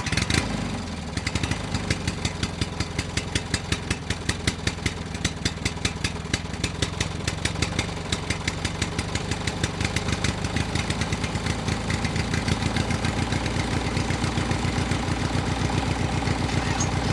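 A small engine on a homemade mini tractor starts up and runs with a steady chugging beat. The regular pulses smooth out into an even run after about ten seconds.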